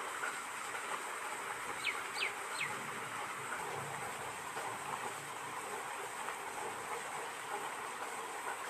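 Heavy rain falling steadily. About two seconds in, a bird gives three quick calls, each sliding down in pitch.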